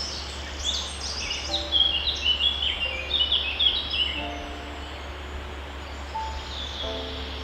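Small songbirds chirping: quick high chirps that sweep down in pitch, coming thick and fast over the first four seconds, then sparser. Short soft low notes sound now and then beneath them, over a steady low hum.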